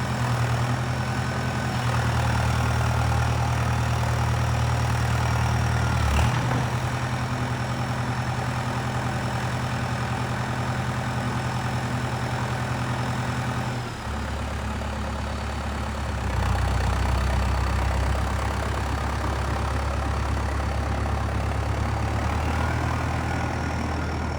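Diesel engine of a Valtra 815 backhoe loader running steadily, with a brief knock about six seconds in. The engine note drops a little about halfway through and picks up again a couple of seconds later.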